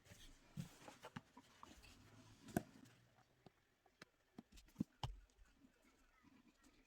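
Faint, scattered taps and rustles of paper being handled, the sharpest clicks about two and a half and five seconds in.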